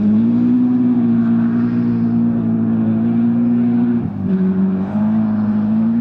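BMW M3 E30 Group A rally car's four-cylinder engine running hard, holding a steady note, then dipping briefly about four seconds in, as on a gear change or a lift, before picking up again.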